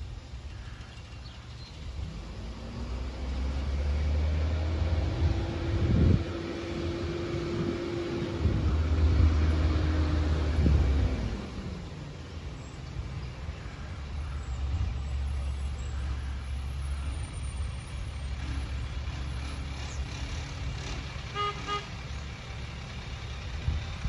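Garbage truck's diesel engine running, revving up and holding higher for several seconds before dropping back to idle, as for a hydraulic packer cycle. A short run of quick beeps comes near the end.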